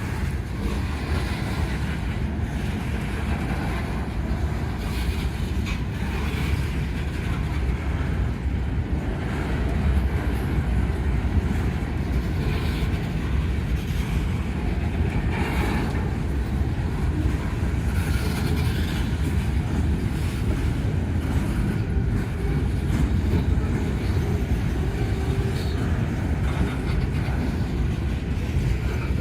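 Freight train cars rolling past on the rails: a steady low rumble with faint knocks.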